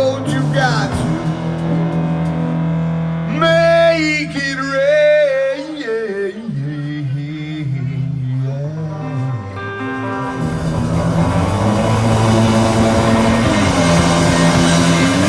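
Live blues-rock band playing: bass and guitar hold low notes under a bending lead line about four to six seconds in, then cymbals swell into a loud wash from about ten seconds on.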